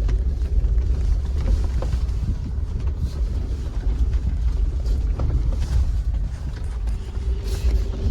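A Jeep driving slowly over a bumpy dirt trail, heard from inside the cabin: a low, steady rumble of engine and tyres, with scattered knocks and rattles as it goes over the bumps. A steady hum joins near the end.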